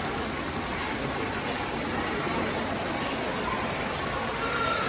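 Steady rush of falling water, with faint voices mixed in.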